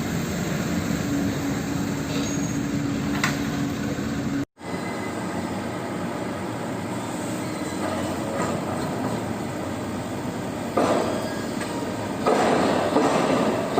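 Heavy diesel machinery working, with a steady whine over the engine noise that stops about four and a half seconds in. The noise grows louder twice near the end.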